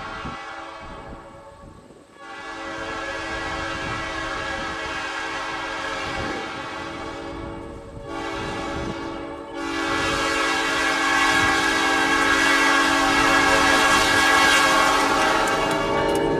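Diesel locomotive's air horn sounding a chord in long blasts with a short one between them, like a grade-crossing signal. The last long blast is the loudest as the locomotive draws nearer.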